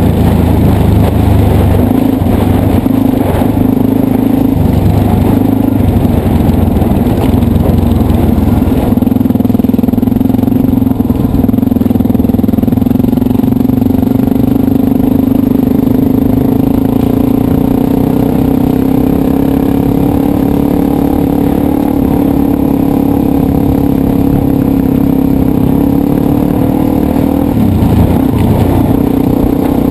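Dirt bike engine running under way, the revs wavering up and down with a brief dip near the end.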